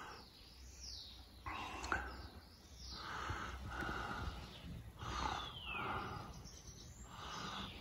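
Small birds chirping and calling in short repeated notes, with a falling whistle about five seconds in.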